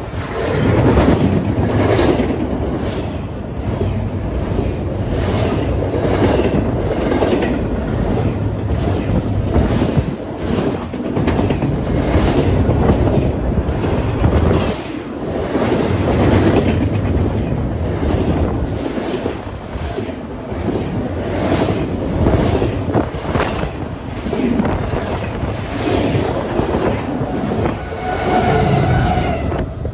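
Double-stack intermodal freight train rolling past at close range: a steady rumble of the cars with repeated clicking of wheels over the rail joints. Near the end a mid-train diesel locomotive passes, adding its engine note.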